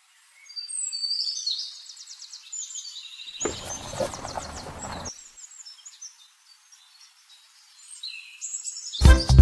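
Small birds chirping and twittering in quick, high calls, with a brief rustling noise about midway. Music comes back in just before the end.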